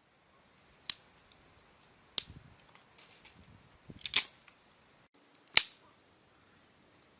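Four sharp knocks or snaps, spaced unevenly a second or so apart, the third preceded by a smaller tap.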